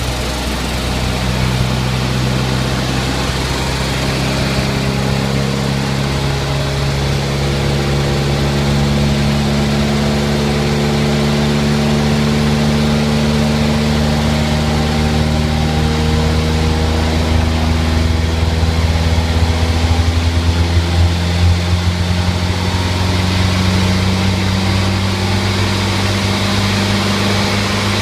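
1982 Honda City E engine under load in a power run, its revs climbing slowly and steadily for about twenty seconds, then dropping back with a brief fluttering about three quarters of the way through. It is a tired engine at 86,931 miles, making 24 bhp.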